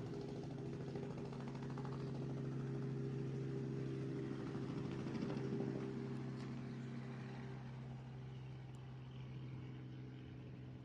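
Helicopter running at a distance, a faint steady drone that fades away over the last few seconds.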